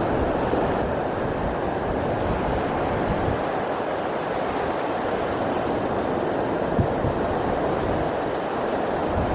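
Wind buffeting the microphone over a steady rush of surf on the shore.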